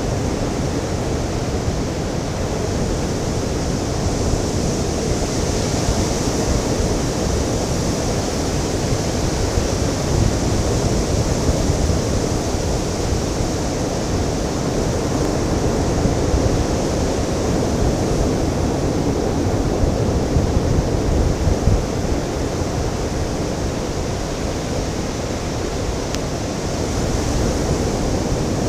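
Ocean surf washing onto a beach, a continuous rush of water with mild swells in loudness.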